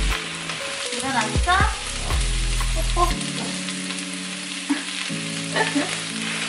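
Diced eggplant and onion sizzling in a hot non-stick wok while a silicone spatula stirs them, with a few short scrapes and knocks of the spatula against the pan.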